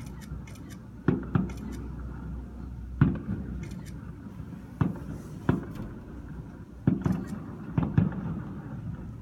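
Distant fireworks bursting over a city: about nine sharp bangs at uneven intervals, each trailing off in a short echo.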